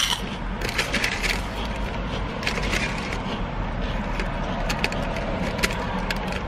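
Close-up crunching and crackling of someone chewing a crisp, airy cinnamon snack, in irregular bursts, over a low steady hum.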